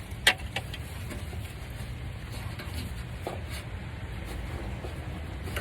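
A sharp click, then a few lighter clicks and taps of a screwdriver and hand tools against metal car parts, over a steady low hum.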